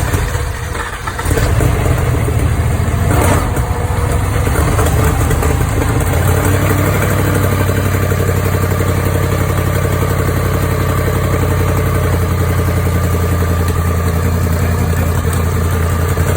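Jaguar XF's rebuilt 5.0 supercharged V8 catching about a second in on its first start after the rebuild, flaring up briefly and then settling into a steady idle. The exhaust is leaking.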